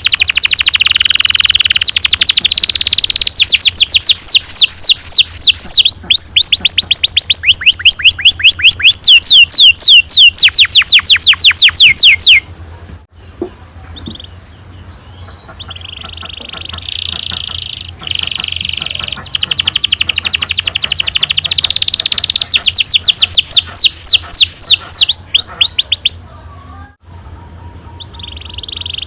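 Domestic canary singing long rolls: fast trills of rapidly repeated falling notes. The song breaks off about twelve seconds in, picks up again with shorter phrases, runs into long rolls once more, and drops away near the end.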